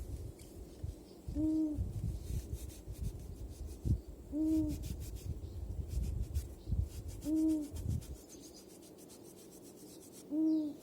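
A short hooting call, slightly arched in pitch, repeating about every three seconds, over low rumbling and a few dull knocks that die away near the end.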